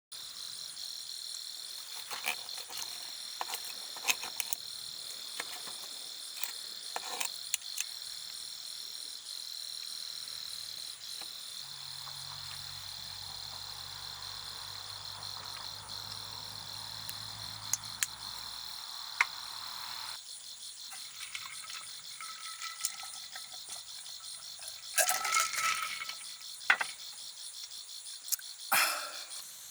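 Insects chirring steadily in a high, continuous drone, with scattered sharp clicks and crackles throughout and two louder clattering knocks near the end. A low hum joins for several seconds midway.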